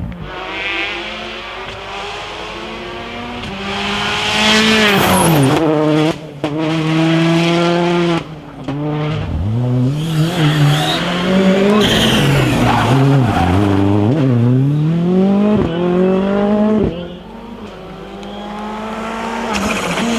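Rally car engines revving hard on a special stage, rising in pitch through the gears and dropping sharply on each shift or lift off the throttle, with sudden dips in level. Tyre noise comes in as the cars go by.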